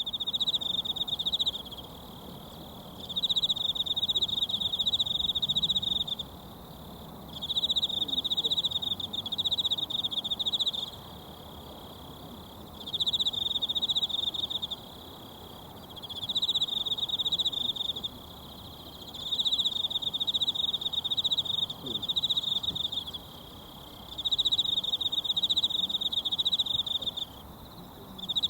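An insect trilling in a high, rapidly pulsing tone, in bursts of two to four seconds separated by pauses of about a second, over the faint murmur of a mountain stream.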